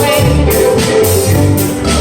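Live contra dance band music: fiddle, keyboard and percussion playing a dance tune with a steady beat.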